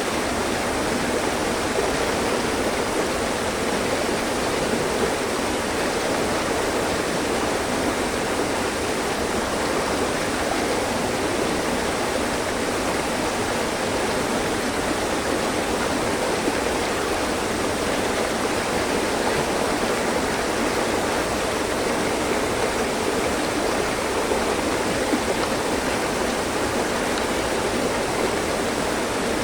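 Mountain stream flowing over rocks: a steady, even rush of water that doesn't change.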